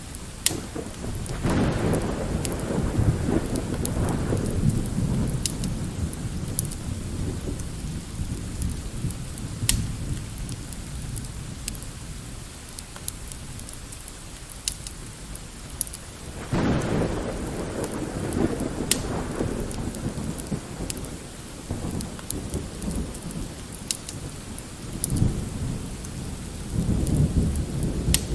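Thunderstorm ambience: steady light rain with sharp crackles from a wood fire, and rolling thunder rumbling twice, from about a second in and again past halfway, with another roll building near the end.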